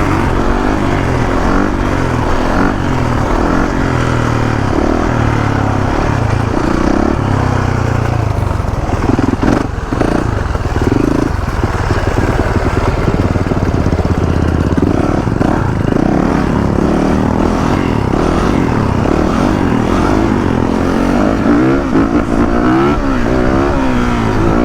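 Motorcycle engines running while riding, the pitch rising and falling with throttle and gear changes, with quick rev-ups and drops near the end.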